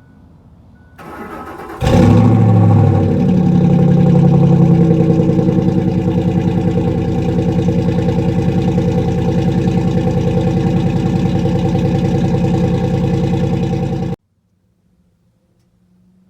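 Ford F-150's engine cranking for under a second and catching with a brief rev flare that drops back to a steady idle. The sound cuts off abruptly about two seconds before the end.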